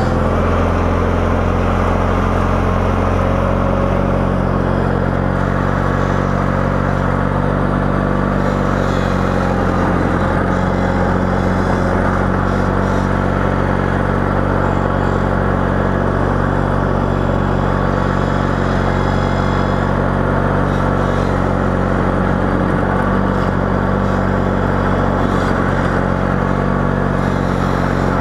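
Engine of a snow-plowing vehicle running steadily, with no marked change in revs.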